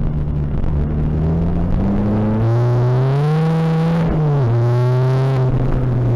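Tuned Seat Ibiza TDI diesel engine heard from inside the car, pulling hard under acceleration. Its pitch rises steadily, drops sharply at a gear change about four seconds in, then climbs again.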